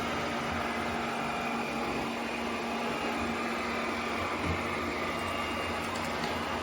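ECOVACS DEEBOT N20 Pro Plus robot vacuum running, a steady whir of its suction motor with a constant hum.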